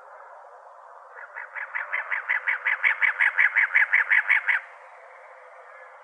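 Cactus wren singing: one run of about twenty rapid notes, roughly six a second, growing louder and then stopping abruptly, over a steady background noise.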